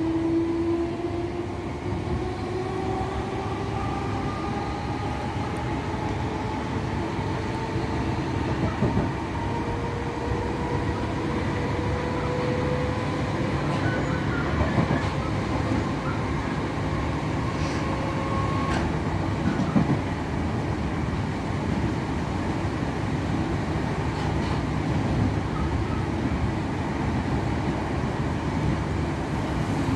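Inside a Merseyrail Class 508 electric train under way: the traction motors whine, rising slowly in pitch as the train picks up speed, over a steady rumble of wheels on rail. The whine fades about two-thirds of the way through, leaving the rumble with a few clicks from the track.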